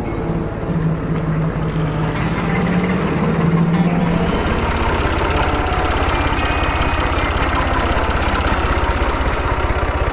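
Landini 5000 tractor's Perkins three-cylinder diesel engine running steadily. Its even low throb becomes stronger about four seconds in.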